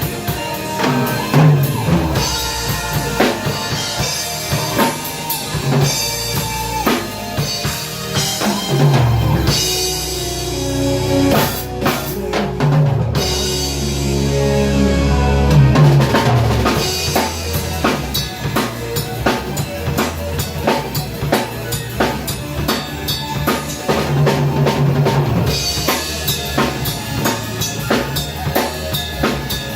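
Progressive rock instrumental: a full drum kit with kick, snare and rimshots driving over bass and keyboards. About twelve seconds in the cymbals and high end drop out briefly under a held low bass note, then the full band comes back.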